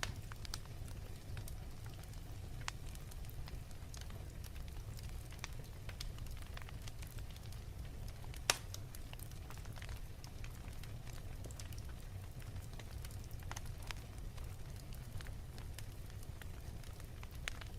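Fireplace crackling: a steady low rumble from the fire with scattered small pops and crackles, one sharper pop about halfway through.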